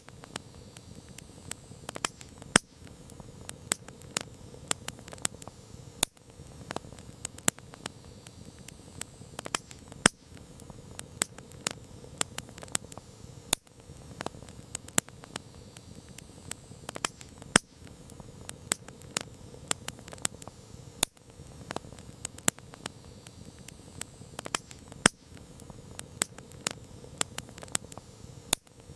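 Wood campfire crackling: irregular sharp snaps and pops, several a second and a few much louder, over a low steady hiss of burning.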